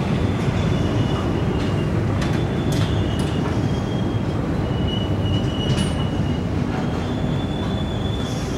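Passenger train with 2016 INKA executive coaches rolling slowly into a station, heard from a coach doorway. There is a steady rumble of wheels on the rails, and a thin high squeal comes and goes as it brakes. A few sharp clicks are heard, about two and a half, three and six seconds in.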